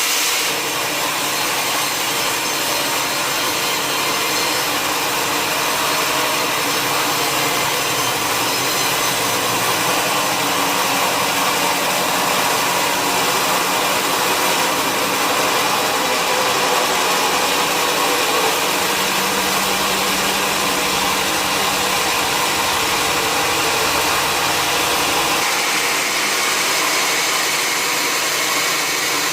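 Sawmill saw cutting through a log, a loud steady sawing noise. A deeper hum under it drops away near the end.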